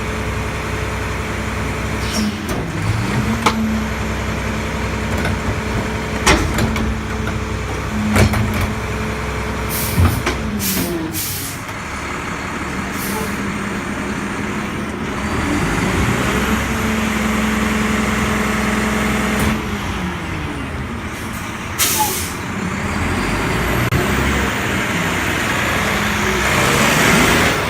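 Diesel engine of a Mack LEU garbage truck, running and revving up and down several times. Several sharp clunks come in the first ten seconds, and short air-brake hisses come about eleven and twenty-two seconds in.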